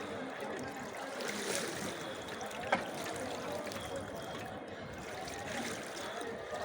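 Steady rush of rainwater running and splashing during a heavy downpour, with one sharp click a little under three seconds in.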